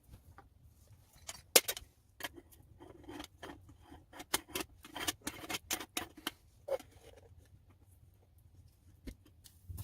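A quick run of sharp clicks and light clinks, like small hard objects being handled. It starts about a second in, is busiest in the middle, and thins out to a few faint ticks after about seven seconds.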